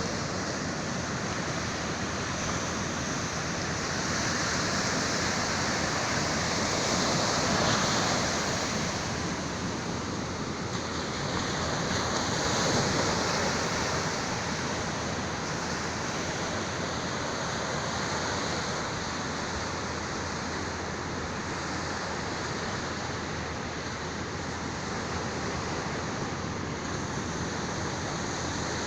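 Sea waves breaking and washing on the shore, a steady rush of surf that swells twice, about a third of the way in and again a little before halfway.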